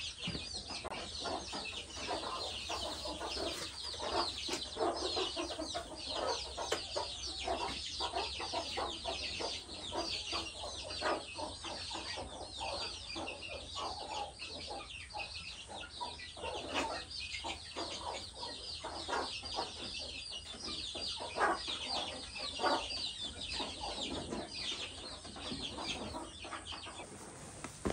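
A flock of chickens clucking, with many short calls one after another. Constant dense high chirping runs underneath and fades near the end.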